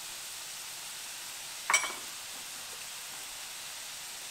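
Onion and garlic sizzling softly in coconut oil in a sauté pan, with a single sharp clink a little under two seconds in.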